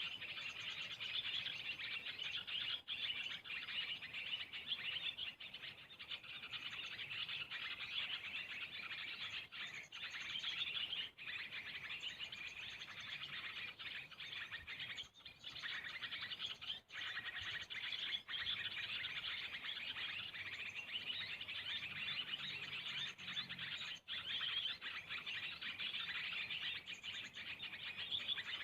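Small birds chirping and twittering without pause in a dense chorus of high chirps.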